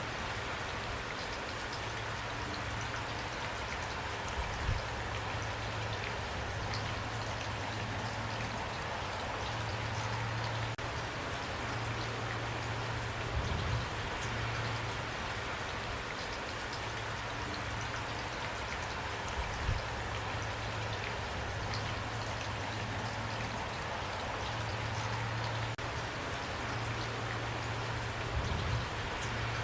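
Steady rain falling, a dense patter of drops, with a low hum that comes and goes underneath and a few soft low thumps.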